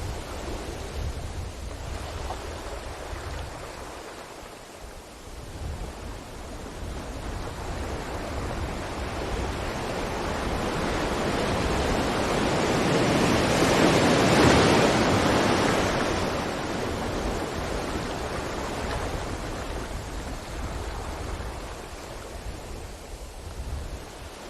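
Ocean waves breaking on a beach: the surf swells slowly to a loud crash about halfway through, then washes back down to a softer hiss.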